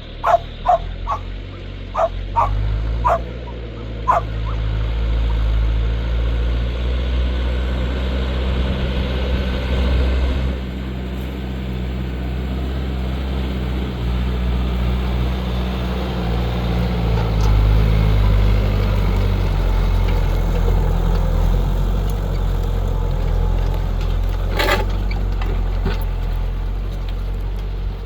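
A dog barks in a quick run of short yaps over the first four seconds. Behind it a New Holland TL100 tractor's diesel engine runs steadily throughout. A single sharp knock comes near the end.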